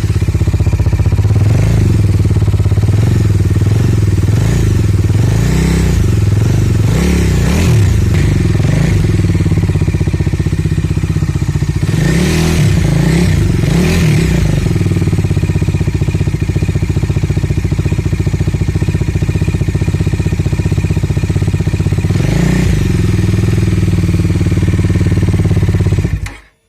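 Bajaj Dominar 250's single-cylinder engine running through its exhaust, a loud steady note with a few brief rises and falls in pitch, then cutting off suddenly near the end.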